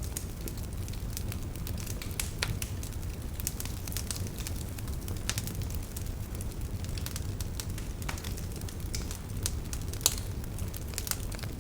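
Wood fire burning with a steady low rumble and irregular sharp crackles and pops, a louder pop about ten seconds in.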